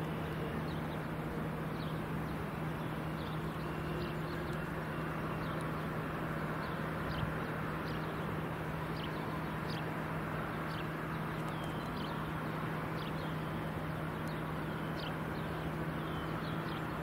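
A bird chirping over and over in short, high, downward-sliding notes, about once a second, over a steady outdoor rumble with a constant low hum underneath.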